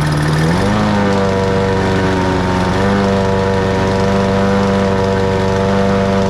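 Lawn mower engine running at a steady speed, its pitch sagging briefly and picking back up about half a second in, with a smaller dip near three seconds in.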